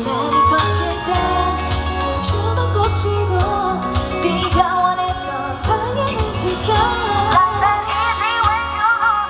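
Female pop vocalist singing live over a full band accompaniment, an upbeat song; her voice, with wavering sustained notes, stands out more in the second half.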